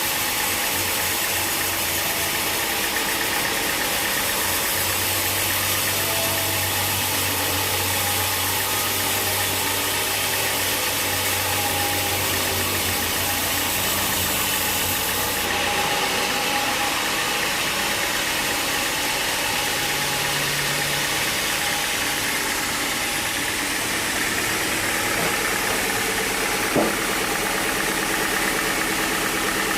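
Engine-driven sawmill machinery running steadily, a constant mechanical drone with a single sharp click near the end.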